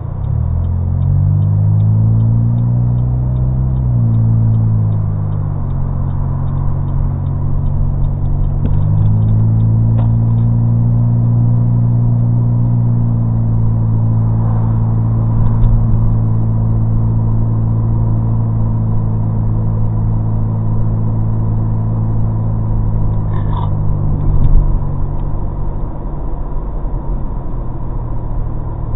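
Engine and custom exhaust of a 2005 Chevrolet Cobalt heard from inside the cabin, accelerating with a rising note. The note drops at an upshift about four seconds in, climbs again, then holds steady at cruise. It falls away near the end as the car eases off.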